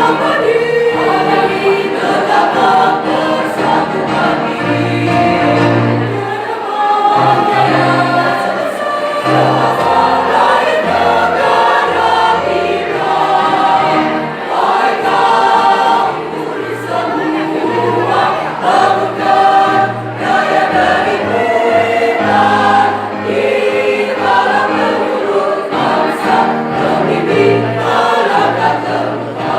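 Choir singing a piece in several voice parts, with sustained low notes underneath.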